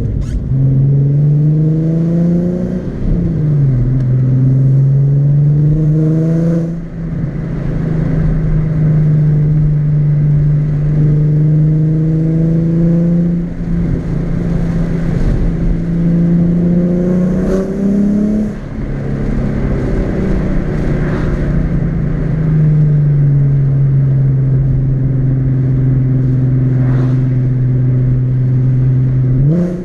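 Nissan 370Z's 3.7-litre V6 pulling through the gears of its manual gearbox. The engine note climbs and drops back about four times as it changes gear, then holds steady while cruising, rising again right at the end.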